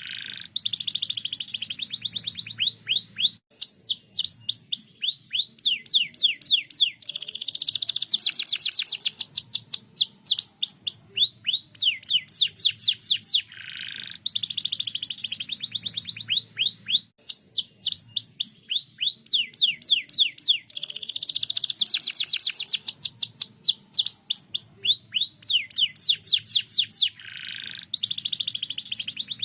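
Domestic canary singing: long, rapid trills of high, downward-sweeping notes, broken by short pauses, with the same song pattern coming round about every 14 seconds.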